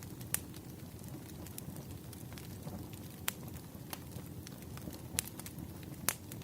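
Wood fire crackling in a fireplace: a steady low rush of flames with scattered small snaps, and four sharper pops spread across the few seconds.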